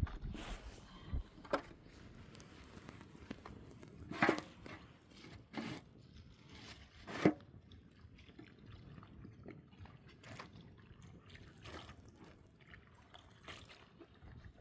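Water splashing and dripping during washing, with a few sharp knocks and scrapes; the loudest come about four and seven seconds in.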